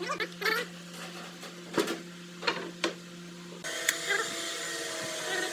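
Steady hum of a small motor with several sharp knocks and clicks; the hum changes abruptly about three and a half seconds in.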